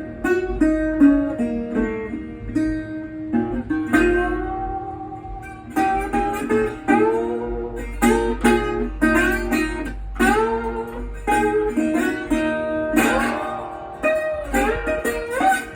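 Dobro resonator guitar played as a blues, plucked notes and chords with a slide, several notes gliding up into pitch.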